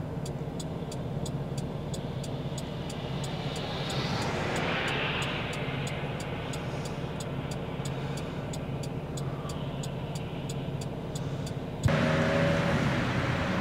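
Street traffic: a steady engine hum, with a vehicle passing about four seconds in. Near the end the sound jumps abruptly to louder, hissier traffic noise.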